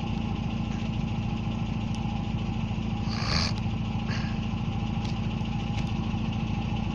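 Premier Padmini's engine idling steadily through its exhaust, an even low pulsing note. A short hiss comes about three seconds in.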